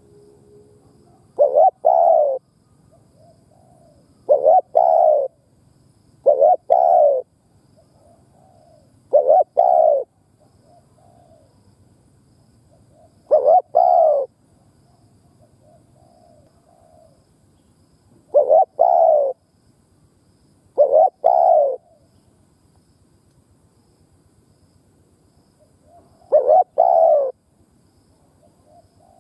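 Spotted dove cooing: eight short bursts, each two or three quick coos, spaced a few seconds apart, with fainter soft coos between them.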